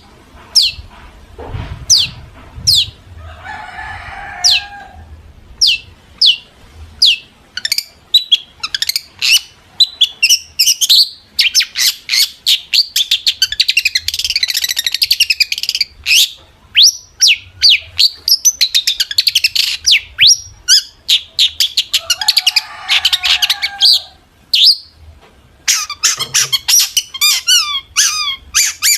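Long-tailed shrike (cendet) singing loudly: a long string of sharp, high, downward-sweeping notes, broken by rapid chattering phrases and a couple of lower, harsher rasping calls. Near the end it turns to a fast, even trill.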